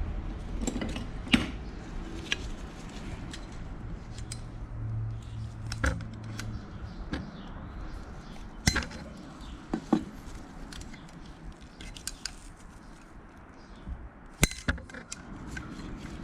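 Scattered metallic clinks and taps of hand tools and steel parts being picked up and set down, about a dozen sharp ones spread irregularly, with a brief low hum about four seconds in.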